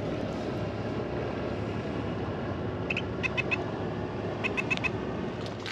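A bird calling in two short runs of four or five quick, high chirps, about three seconds in and again a second and a half later, over a steady low outdoor background rumble.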